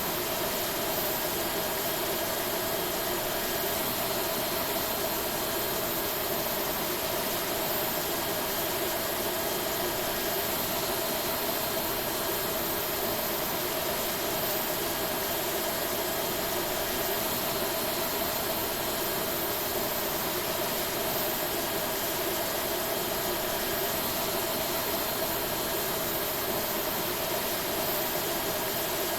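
Airbus A321neo airliner noise: jet engines and air systems running steadily at low power, an even rushing hiss with a constant hum and a faint high whine that do not change.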